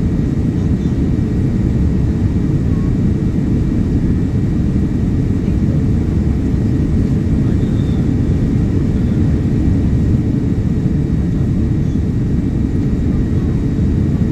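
Steady low rumble of engine and airflow noise inside the cabin of a Boeing 787-9 airliner in flight, heard from a window seat.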